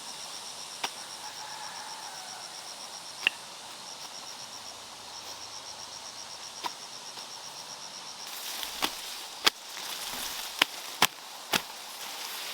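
A cricket-like insect trilling in rapid high pulses, stopping briefly about a third of the way in and starting again, with a few isolated clicks. Near the end there is rustling and a quick series of sharp knocks.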